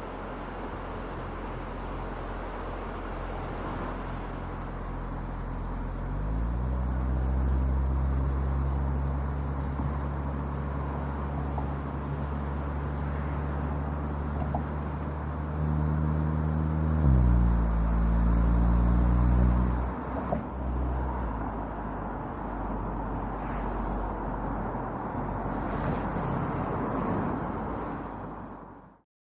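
Traffic and road noise of a car driving on an expressway, picked up by a roof-mounted dashcam's microphone. A low engine drone rises in pitch about six seconds in, steps up again about halfway through, and fades a few seconds later. The sound cuts off abruptly near the end.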